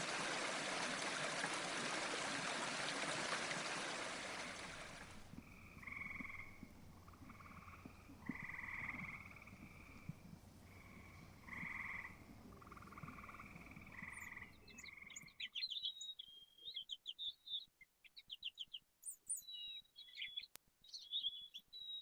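Rushing stream water for about the first five seconds, then frogs calling in repeated croaks about a second long, then small birds chirping in quick high notes for the last six seconds.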